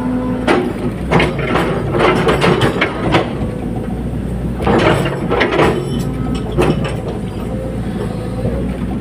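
Caterpillar 320D hydraulic excavator's diesel engine running steadily, with bursts of metallic clanking and rattling: one starting about half a second in and running for a few seconds, another around five seconds, and a shorter one near seven seconds.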